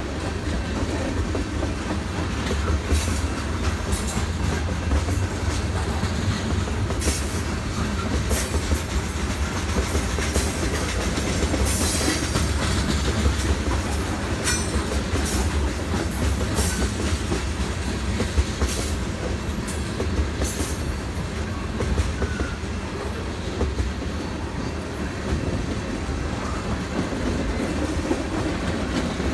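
Freight train of tank cars rolling steadily past, a continuous low rumble with the wheels clacking sharply and irregularly over the rail joints.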